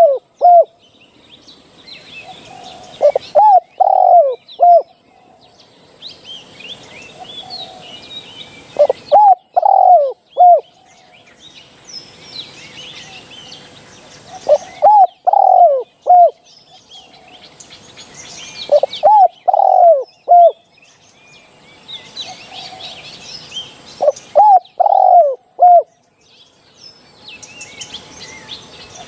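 Spotted dove cooing: phrases of three or four loud, falling coo notes, repeated about every five to six seconds, five times. Small birds chirp faintly between the phrases.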